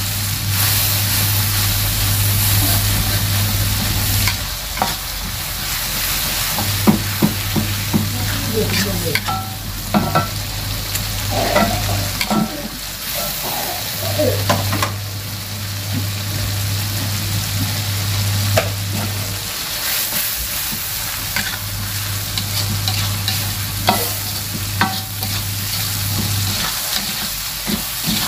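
A saucy mixture sizzling in a metal wok on a gas stove while a metal spatula stirs it, scraping and clicking against the pan. A low hum cuts in and out in stretches of several seconds.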